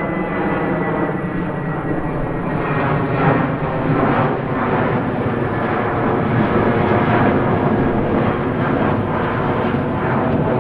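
Airliner cabin noise heard from a window seat: a loud, steady rush of engine and airflow noise with humming engine tones running through it.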